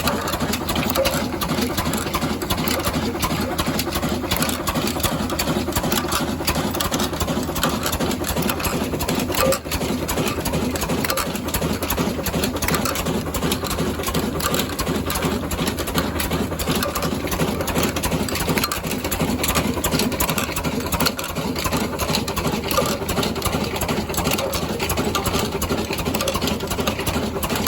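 Old Ruston Hornsby stationary diesel engine running steadily with a dense, fast mechanical clatter.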